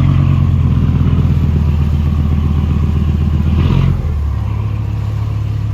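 Large ferry boat's engine running loudly with a steady low drone; about four seconds in its note shifts and it gets a little quieter.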